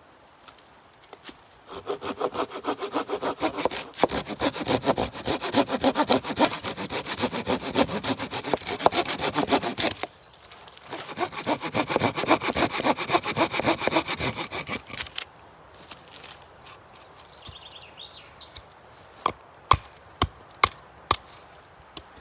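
Hand saw cutting through a wooden branch in quick back-and-forth strokes, in two long bouts with a short pause between. A few sharp wooden knocks follow near the end.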